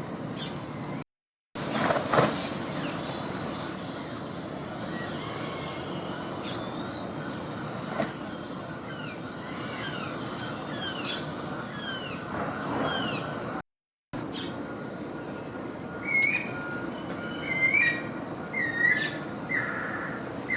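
Many small birds chirping and calling over a steady background din, with louder, repeated calls in the last few seconds. The sound drops out completely twice, briefly, at cuts.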